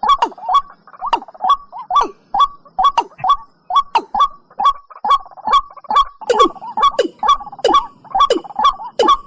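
Watercock (cúm núm) calling: a fast, steady series of short notes, about three to four a second, each dropping sharply in pitch. About six seconds in, lower, fuller notes join the series.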